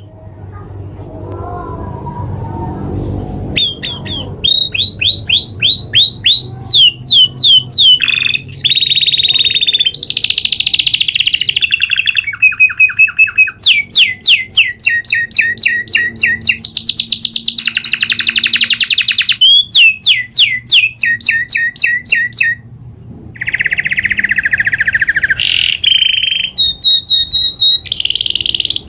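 Domestic canary singing long rolling trills: fast trains of repeated notes that change from one roll to the next. The song starts a few seconds in after a brief lull, and breaks off briefly a little past two-thirds of the way through.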